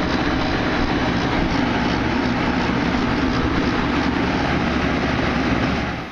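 Carrier package air-conditioning unit running loudly and steadily at close range, its compressor and condenser fan going after a new run capacitor and rewired burnt wires. The noise drops away abruptly near the end.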